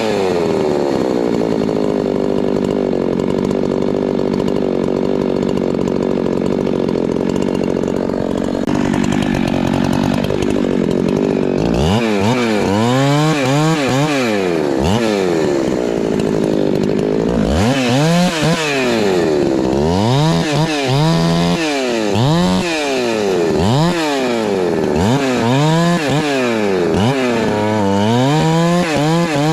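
Husqvarna two-stroke chainsaw bucking Douglas fir: held at a steady high full-throttle pitch for the first eight seconds or so, then from about twelve seconds in its revs rise and fall over and over, about once every one to two seconds.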